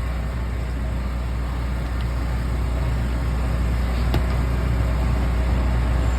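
Steady low mechanical hum of food truck equipment running, with a faint click about four seconds in.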